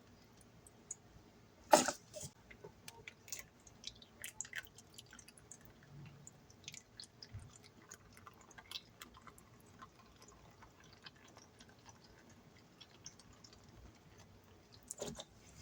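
Liquid cleaners (Pinalen, dish soap, Soft Scrub) being dispensed onto a soapy sponge: faint wet crackles and drips, with two sharp clicks, about two seconds in and near the end.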